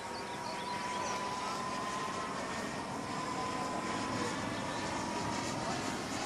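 Radio-controlled model jet in flight: a steady high engine whine that drifts up a little and then eases back, over a rushing noise.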